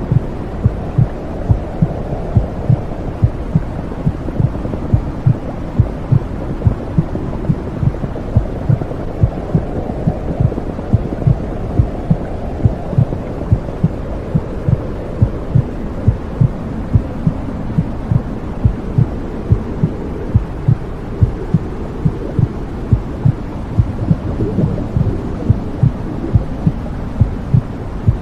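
Womb sound for soothing babies: a low, steady whooshing rumble with a regular heartbeat thumping through it at an even pace.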